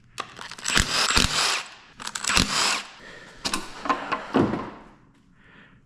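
Cordless power tool (a "gun" with an 8mm socket) spinning out engine bolts in three bursts, the first two with sharp metallic clicks, then stopping about four and a half seconds in.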